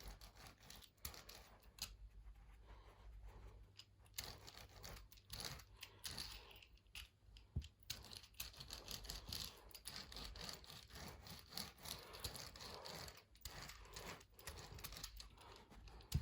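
Faint, irregular scraping and rubbing on carpet pile, over a low steady hum.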